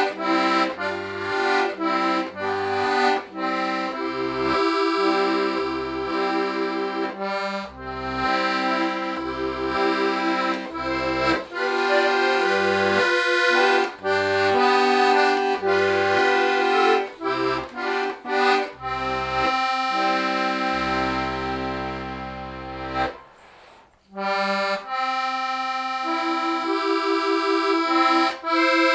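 Club-system diatonic button accordion playing a folk melody with chords over separate bass notes; the sound fades to a brief pause about three quarters of the way through, then the playing resumes.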